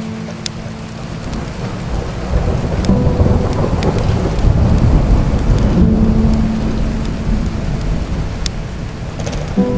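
Steady rain with a long roll of thunder that builds about two seconds in, rumbles loudest mid-way, then slowly fades.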